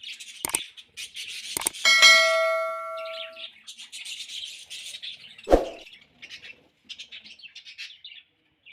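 Budgerigars chattering and chirping, with a few sharp knocks. About two seconds in there is a loud bell-like ring that fades over a second or so.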